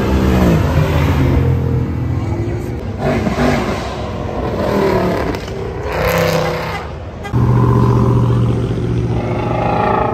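Ford Mustang V8 engines revving and accelerating hard, in several short clips cut one after another. Near the start an engine note falls in pitch. About seven seconds in, a loud steady engine note starts suddenly.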